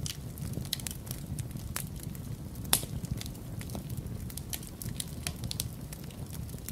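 Wood fire crackling in a fireplace: irregular small pops and snaps, one sharper pop about two and a half seconds in, over a low steady rumble.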